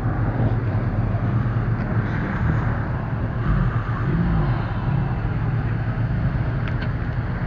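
Car engines idling, a steady low rumble, with faint voices in the background.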